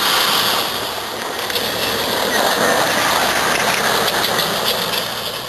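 1994 Dodge Ram 1500 pickup driving over gravel: a steady rush of tyre and gravel noise, with gravel ticking here and there.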